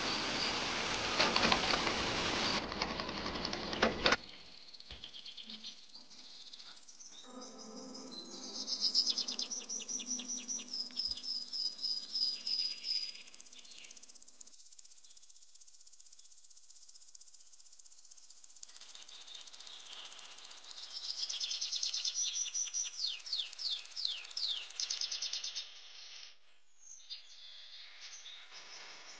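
Loud outdoor hiss and crowd ambience that cuts off after about four seconds. Later, two spells of rapid high-pitched chirping trills, like a bird singing, over a faint background.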